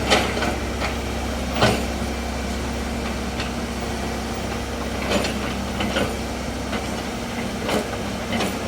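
A heavy vehicle's engine running steadily at low revs, with several sharp knocks scattered through it.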